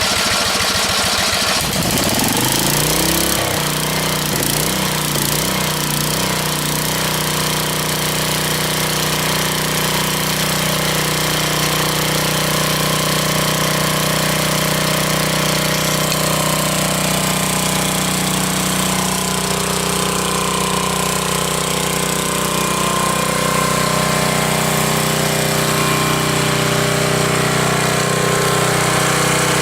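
Coleman Powermate 5,000-watt portable generator's engine running loudly just after a cold start on choke, its speed swinging for the first few seconds before settling into a steady run.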